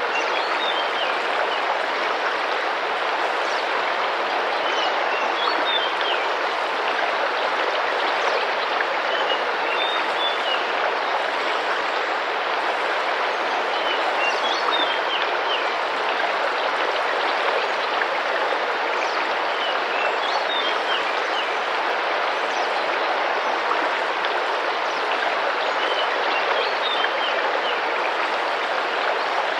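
Rainforest river water running and splashing steadily, with a bird giving short, high chirping phrases every few seconds.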